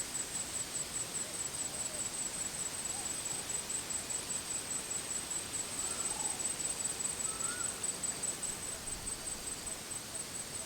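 Insects chirping in a steady, high-pitched pulse, about four pulses a second, with a few faint short calls from other animals now and then.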